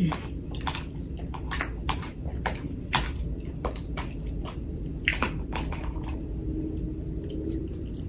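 A person chewing and biting food close to the microphone, with many short, irregular wet mouth clicks and smacks.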